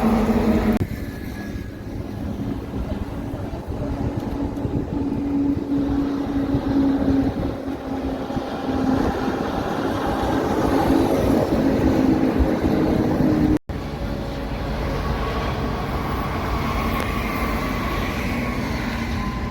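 Heavy truck traffic, with engines droning steadily and tyre noise underneath. The sound changes abruptly about a second in and drops out for an instant about two-thirds of the way through.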